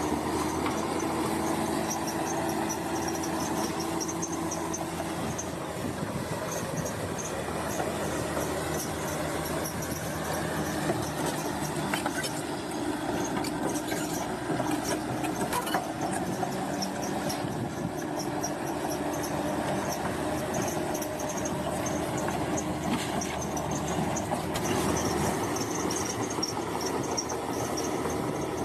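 Bulldozer at work: its diesel engine running steadily under load, with the steel tracks squealing in a repeating pattern as they move.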